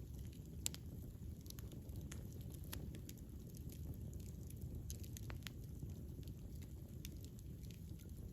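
Wood campfire burning: a steady low rumble with irregular sharp pops and crackles, the loudest pop just under a second in.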